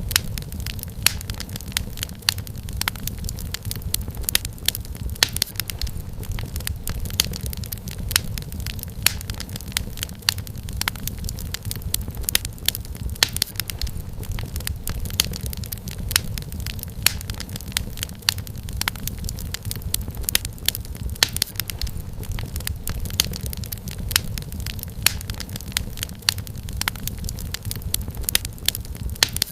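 Wood fire crackling in a fireplace: many irregular sharp pops and snaps over a steady low rumble of burning logs.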